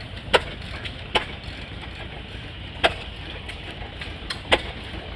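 Antique hit-and-miss gas engine firing: four sharp exhaust pops at uneven gaps over a low steady rumble. The governor lets it fire only when it slows, which is how such an engine runs unloaded.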